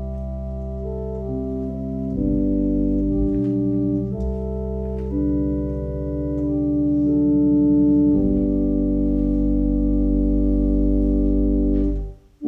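Organ playing slow sustained chords that change every second or two. The sound cuts out abruptly just before the end.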